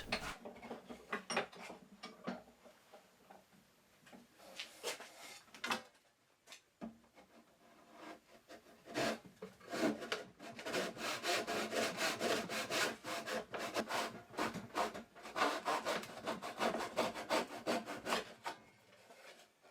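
A few scattered knocks and rubs of wood being handled, then from about nine seconds in a hand saw cutting wood in steady back-and-forth strokes: the final cut through the end of a box to separate its lid.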